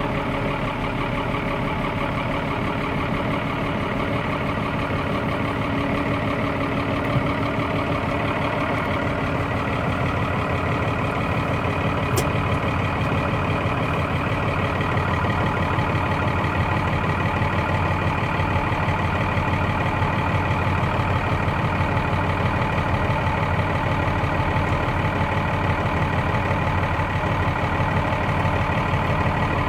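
Case IH Maxxum 5150 Plus tractor's diesel engine idling steadily just after a cold start in freezing weather, after glow-plug preheating.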